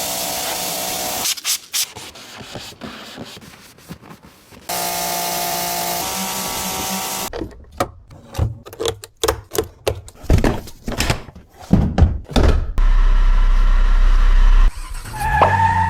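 Workshop tool sounds cut together: a power tool runs in two short stretches, then a string of knocks and scraping, then a steady low hum.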